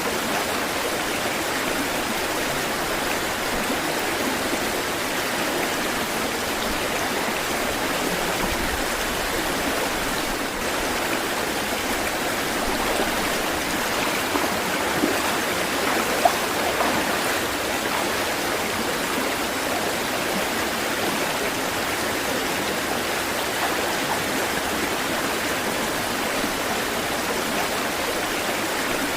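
Water running in a stream, a steady even rush, with a couple of brief louder splashes about halfway.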